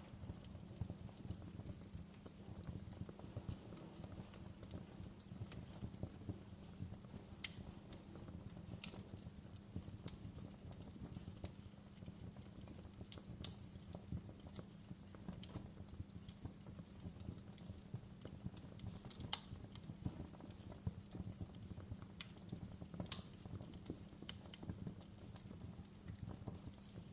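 Fire in a fireplace crackling steadily and faintly, with a sharper pop every few seconds.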